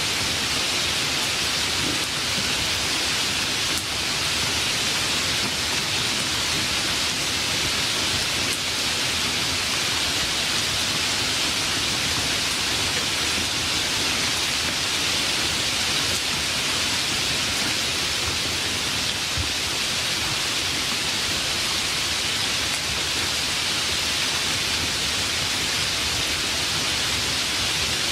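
Steady rainstorm: an even, unbroken hiss of heavy rain.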